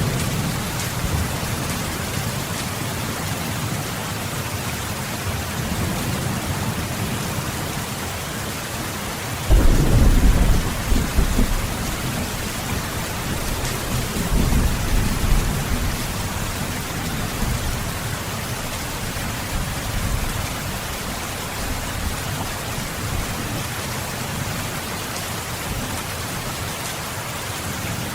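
Steady rain falling, an even hiss, with deep rolls of thunder: a sudden loud rumble about a third of the way in that dies away over a few seconds, and a weaker one soon after.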